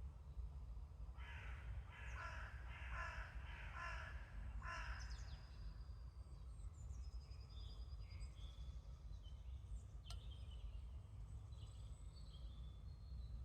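A crow caws five times in quick succession, about a second in, the calls roughly half a second apart. Faint, thin chirps of small birds follow, over a steady low background rumble.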